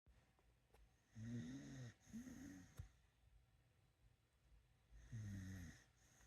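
A dog snoring in its sleep: two pitched, wavering snores back to back starting about a second in, then another about five seconds in.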